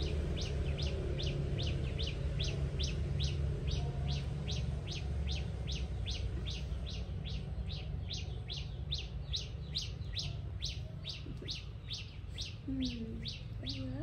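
A bird repeating one short, sharp chirp at a very even pace, about two and a half times a second, over a steady low rumble.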